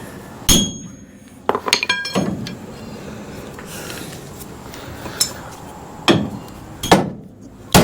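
Hammer blows on the bent steel front frame of a 1966 Ford Ranchero, being knocked back into shape: a quick cluster of strikes, some ringing out with a metallic tone, then a short pause and three or four more spaced blows about a second apart.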